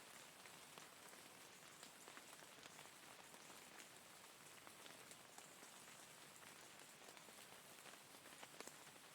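Steady rain falling, a faint, even hiss with many scattered drop ticks.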